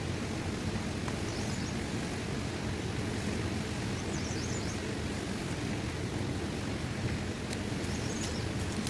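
Steady rushing outdoor noise, strongest in the low end, with a few faint, short high chirps.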